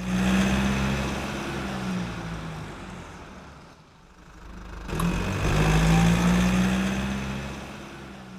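A car engine running, loud at first and fading away, then swelling up again about five seconds in and fading out once more, like two passes of a car.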